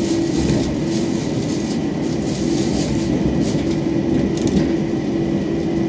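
Inside a moving electric commuter train: a steady rumble of the carriage running on the track, with a constant hum underneath.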